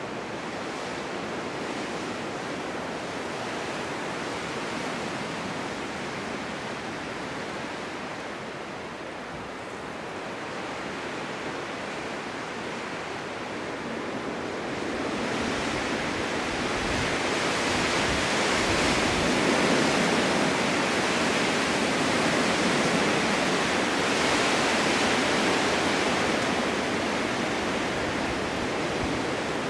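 Winter wind blowing in a snowstorm: a steady rushing hiss that swells and grows louder and fuller about halfway through.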